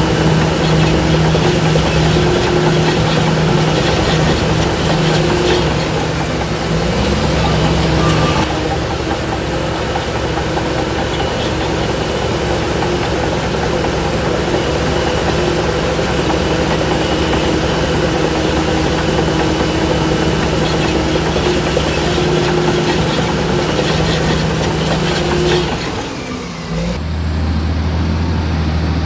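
Heavy diesel earthmoving machinery running steadily under load. About 27 s in the sound changes abruptly to a lower, steadier engine hum.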